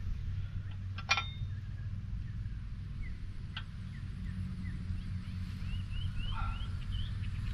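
Small gas engine of a mini skid steer running steadily at idle, with a couple of sharp metallic clinks and a short run of bird calls near the end.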